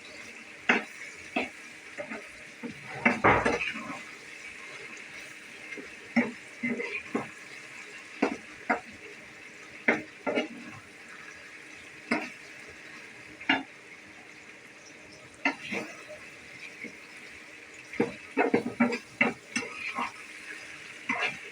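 Dishes and utensils clinking and scraping in an irregular clatter, with short knocks and scrapes every second or two and a quick run of them about 3 s in and again near the end.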